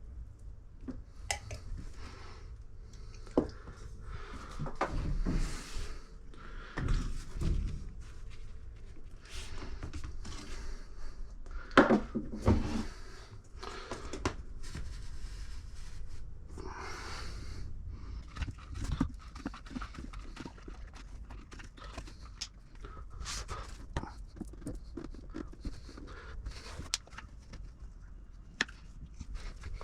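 Intermittent knocks, thunks and rustling handling noises from hands-on work, with one brief squeak-like tone about twelve seconds in.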